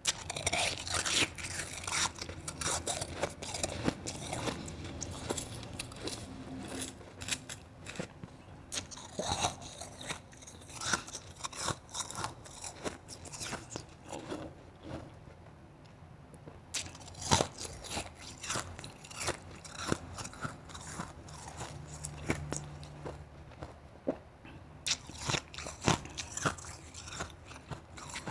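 Close-miked biting and chewing of soft, fluffy crushed ice, a dense run of irregular sharp crunches.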